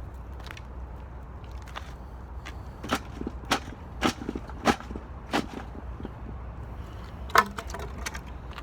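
Dry wood cracking and snapping: a run of sharp snaps about every half second, then a louder single crack near the end, over a steady low rumble.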